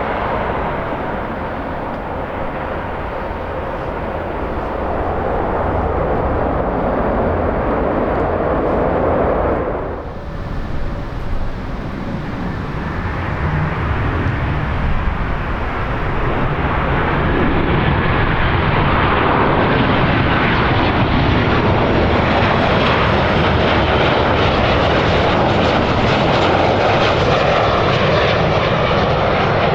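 Airliner engines running loud and steady as a plane moves nearby, growing louder and fuller from about halfway through, with wind buffeting the microphone. The sound drops off briefly about a third of the way in.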